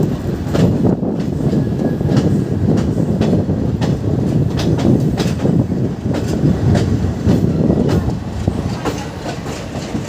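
Passenger train coaches rolling past, a steady heavy rumble with the wheels clattering over the rail joints.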